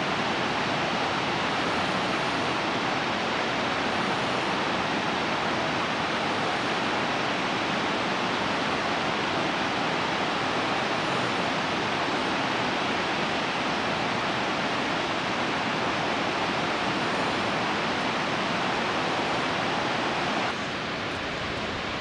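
Steady rushing of the Nardis waterfall, running low after a long drought. The rush drops slightly in level near the end.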